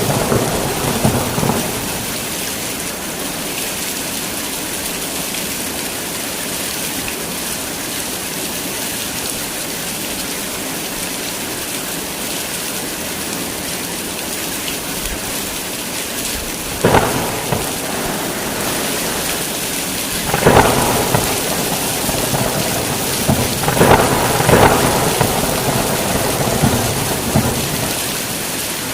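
Heavy rain falling steadily in a thunderstorm, with loud thunder claps at the very start and three more in the second half, the last one rolling on for a second or two.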